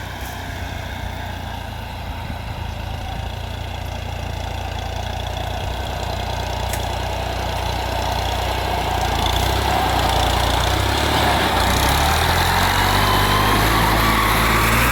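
Tractor diesel engine running, growing steadily louder and rising in pitch over the last several seconds as it revs up.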